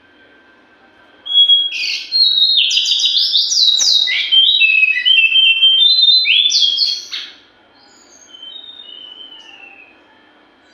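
Jongkangan songbird singing a loud, fast burst of quick sliding and stepping whistled notes for about six seconds, then a softer short phrase near the end.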